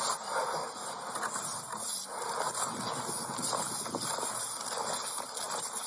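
Footsteps and clothing rustle picked up by a body-worn camera as the wearer moves about: an uneven run of soft steps and scuffs.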